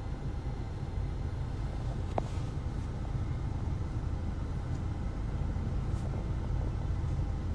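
A car on the move: steady low rumble, with one small click about two seconds in.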